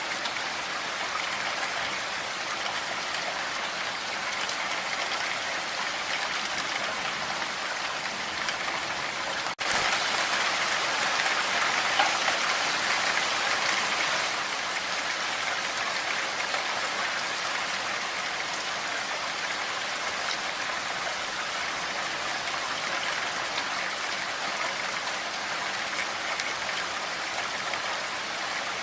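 Steady rain falling. About ten seconds in there is a sudden brief dropout, and the rain is a little louder for the next few seconds.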